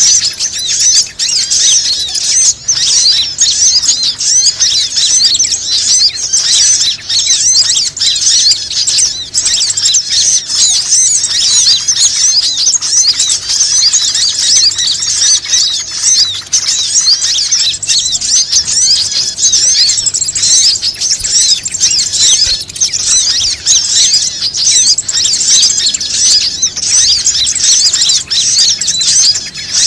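Bird-lure (pikat) recording: a dense, continuous chorus of many small songbirds, with quick high chirps overlapping without a break.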